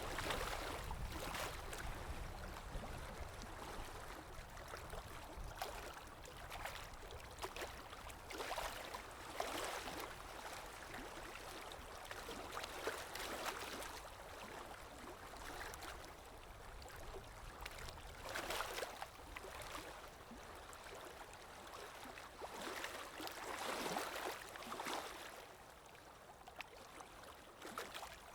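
Underwater ambience: muffled rushing and bubbling water with a low rumble, swelling and fading every few seconds.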